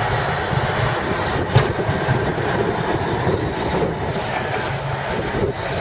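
Snowplows pushing snow along the street: a steady scraping, grinding noise with one sharp knock about a second and a half in.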